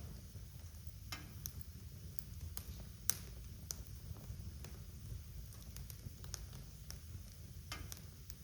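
Wood fire crackling in a fireplace: scattered sharp pops and snaps over a low, steady rumble of the flames, with one louder pop about three seconds in.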